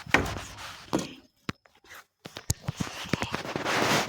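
Footsteps and scattered knocks of chairs being carried, with rustling from a phone held in the same hand; a short lull partway through, then quick clicks and knocks near the end.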